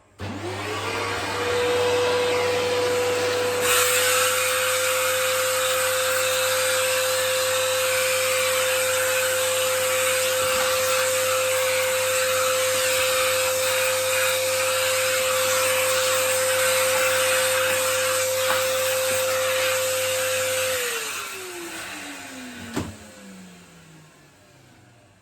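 Vacuum cleaner switched on, its motor rising to a steady high whine with loud rushing air that grows louder about four seconds in. It is switched off near the end and the whine falls away as the motor spins down, followed by a single click.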